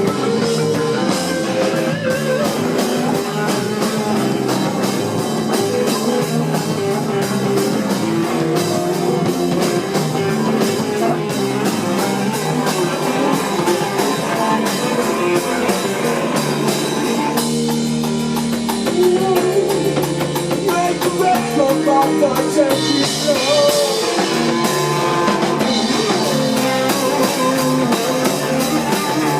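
A rock band playing live: drum kit and guitars, with some singing.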